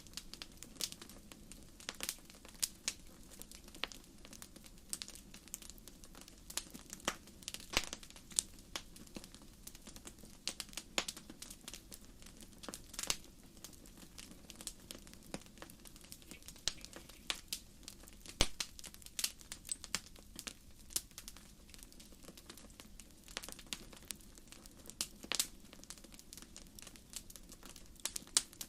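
Wood campfire burning, with irregular sharp pops and crackles of firewood over a low steady rush of flame.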